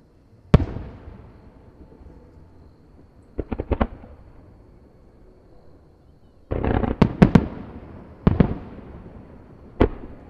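Fireworks shells bursting overhead: a sharp bang about half a second in, a quick rattle of four reports a few seconds later, then a dense run of bangs around two-thirds of the way through and two more single bursts, each trailing off in an echoing rumble.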